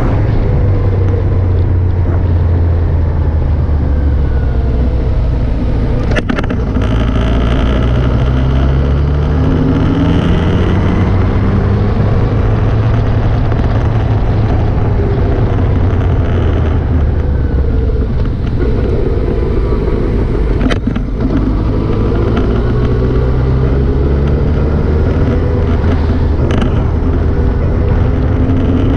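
Motorcycle engine running under way, its note rising and falling with the throttle and climbing steeply twice as it accelerates, over steady wind and road noise. A few sharp knocks cut through now and then.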